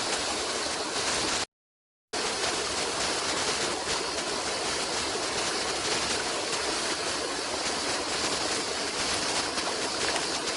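Running water of a stream, a steady even rush. It cuts out completely for about half a second about a second and a half in, then resumes unchanged.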